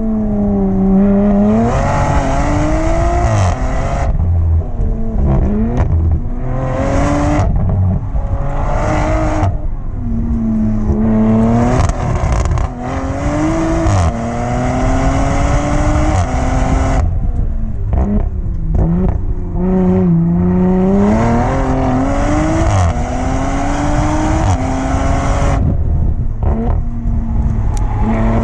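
Audi TT race car's engine under hard acceleration, its pitch climbing steadily and then dropping sharply again and again as it works through the gears and lifts for corners.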